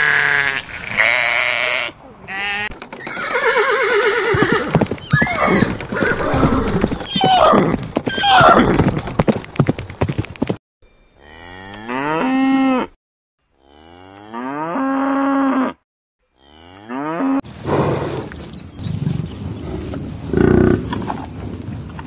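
Sheep and goats bleating in a rapid run of short, quavering calls. About halfway through, a cow moos twice, each a long, even call. Near the end come the rough, low grunts of an American bison.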